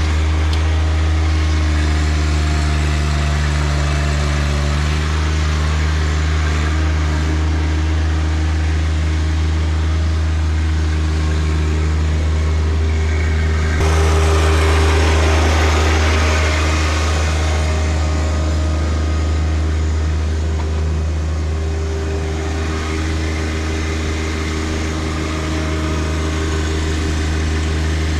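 John Deere 1025R compact tractor's three-cylinder diesel engine running at a steady speed while working the 260B backhoe. About halfway through, a louder rush of noise rises over the engine for two or three seconds, then settles back.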